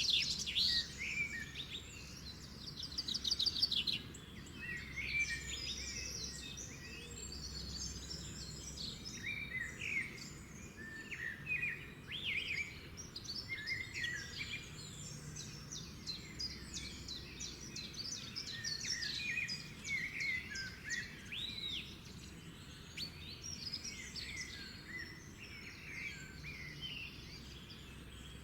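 Several songbirds calling and singing over one another, a dense chorus of chirps, whistles and rapid trills, over a faint steady low rumble.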